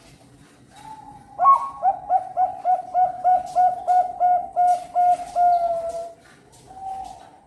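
Zebra dove (perkutut bangkok) singing: an opening coo about a second in, then a rapid run of short clipped coos, about four a second, ending in a drawn-out falling note, and one more coo near the end.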